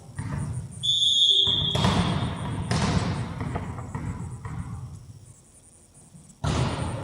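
Football game sounds: irregular thuds of a ball being kicked, with one steady high whistle blast lasting about a second, about a second in.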